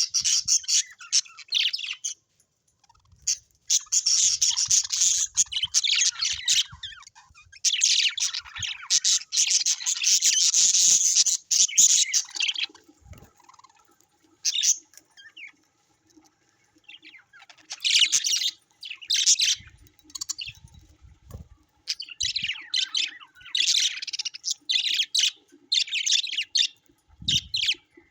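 Birds chirping and chattering in quick, dense spells of high calls, broken by a couple of pauses of a second or more.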